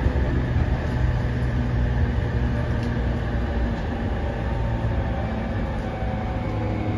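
Running sound of a 209 series 500 electric multiple-unit train heard from inside the passenger car: a steady low rumble of wheels on rail and running gear, with faint steady motor tones.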